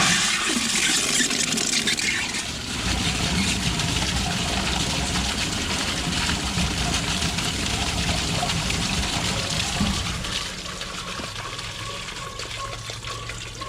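Steady rush of running water, easing after about ten seconds, over a low engine hum.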